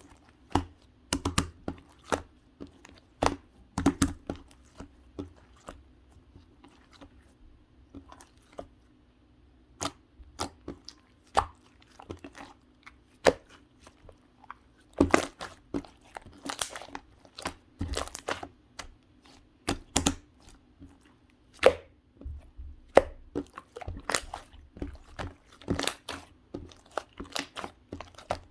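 Slime being squeezed and poked by hand, giving irregular sharp pops and crackles, sometimes single and sometimes in quick clusters.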